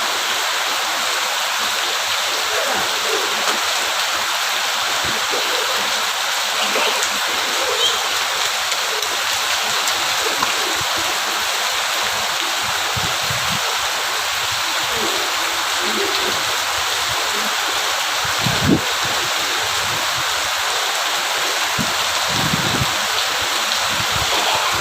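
Steady, heavy rain falling, an even rushing hiss throughout, with a single short thump about three-quarters of the way through.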